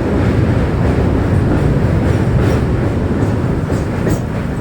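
An Indian Railways train running with a steady low rumble, with a few faint clacks about halfway through.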